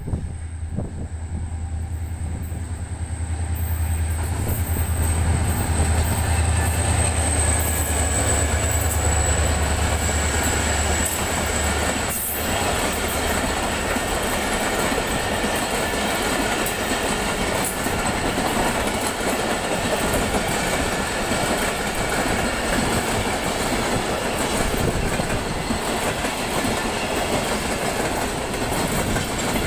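An HGMU diesel locomotive passes close with a deep engine drone and a thin high whine, which die away about twelve seconds in. Its passenger coaches then roll past with a steady rumble and clickety-clack of wheels over the rail joints.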